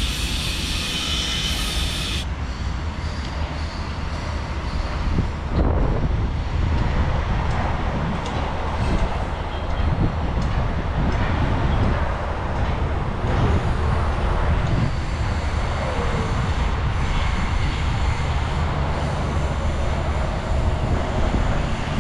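A train running on the rails nearby: a steady heavy rumble with clattering wheel noise and a few knocks.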